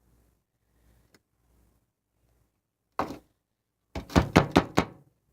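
A nearly empty plastic glue bottle being worked to get the last glue out: one thump, then about a second later a quick run of about six knocks.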